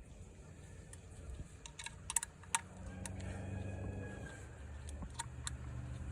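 Several sharp clicks and taps of small parts being handled, bunched together about two seconds in. A low steady rumble sets in about three seconds in.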